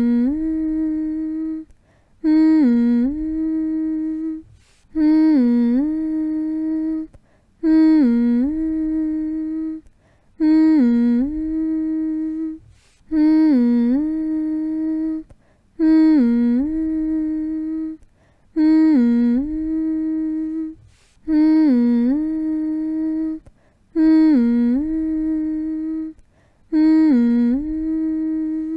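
A person humming the same short phrase over and over, about every two and a half seconds: a quick dip in pitch, then a long held note, with a brief pause between phrases. Slow, even lullaby-style humming for soothing a baby to sleep.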